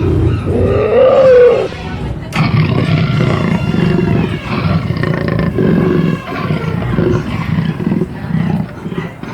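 Recorded jungle animal roars and growls from the Rainforest Cafe's animatronic animal show, played over the restaurant's speakers. About two seconds in they become a dense, pulsing run that lasts to the end. Before that there is a brief gliding call.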